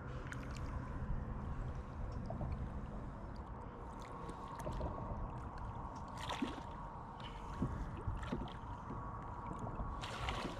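Water sloshing and gurgling around a small fishing boat over a steady low hum, with a short splash about six seconds in and a longer splash near the end.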